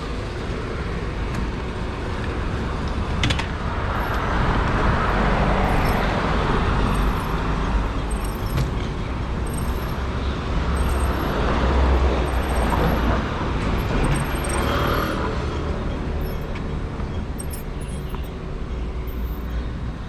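Road traffic noise: a steady low rumble of motor vehicles, with vehicles passing that swell louder twice and fade away.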